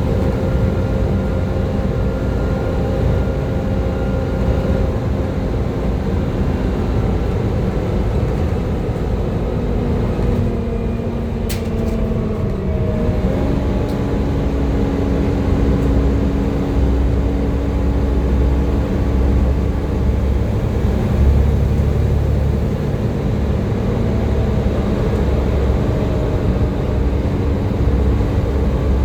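Volvo B7TL bus's diesel engine running under way, with a steady whine over its rumble, the 'hoover' sound these buses are known for. The whine sags about twelve seconds in, then steps up to a slightly higher pitch and holds, and the low rumble grows heavier as the bus pulls harder. A single sharp click comes just before the dip.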